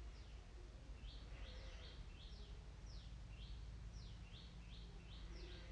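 Faint bird calls: a rapid run of short, high chirps that sweep in pitch, about three a second, over a steady low rumble.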